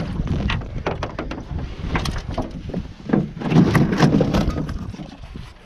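Irregular knocks, clatters and heavy thumps on the deck and hull of a jon boat, densest and loudest about three and a half to four and a half seconds in.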